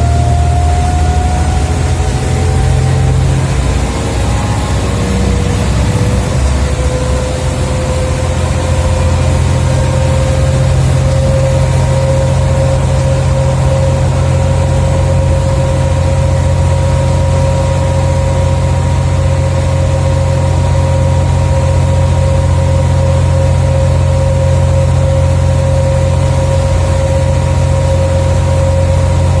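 Scania OmniCity single-deck bus heard from on board: a deep engine drone with a whine that falls in pitch over the first several seconds as the bus slows, then holds at one steady pitch while the engine runs on evenly.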